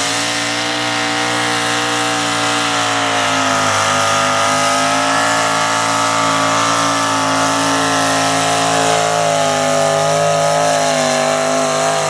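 Pickup truck pulling engine held at high revs, its pitch wavering only slightly.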